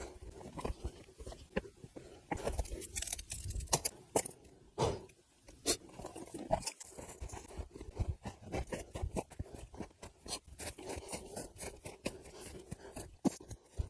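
Irregular crunches, snaps and scrapes of sticks and forest litter being handled and stepped on while firewood is gathered.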